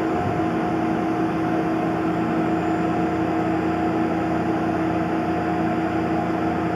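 Tormach PCNC 1100 CNC mill running, a steady whine over an even rushing noise. Right at the start the sound shifts from a deeper hum to a new, higher steady tone.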